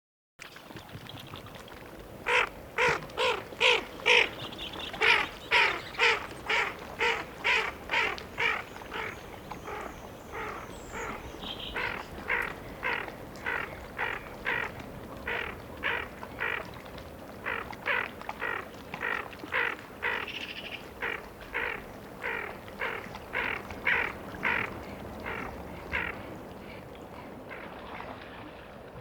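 A bird calling a long series of short, harsh notes at an even pace, a little under two a second, louder for the first several seconds and going on until near the end.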